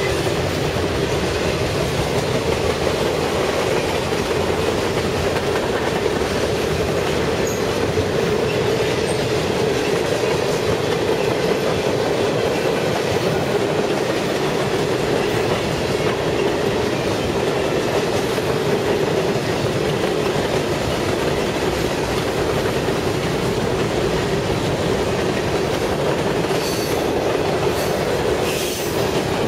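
A Canadian National freight train's cars rolling past on the rails, a steady, continuous rumble of wheels on track that runs unbroken throughout.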